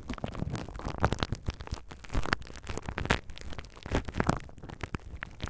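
Close-miked ASMR trigger sounds: irregular crackles, taps and short scratchy strokes.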